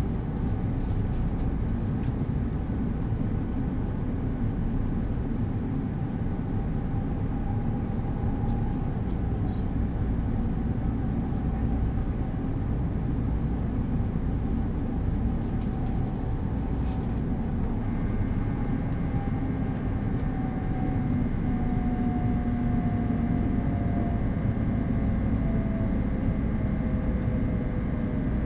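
E2 series Shinkansen running at speed, heard inside the passenger car: a steady rumble of wheels on rail and traction equipment. About two-thirds of the way through, a set of whining tones comes in and slowly falls in pitch.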